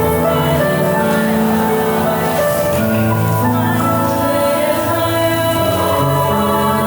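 Student choir singing, with long held notes that change every second or so.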